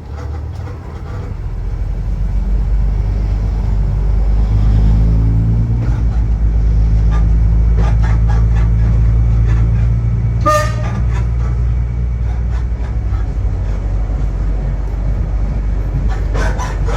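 Diesel engine of a Waggon und Maschinenbau railbus running and revving up, its pitch rising for a couple of seconds before it settles into a steady, loud drone. A single short horn toot sounds about ten seconds in.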